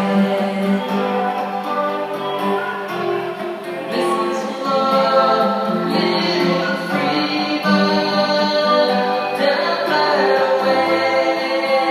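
Music: a song sung with long held notes that change every second or two.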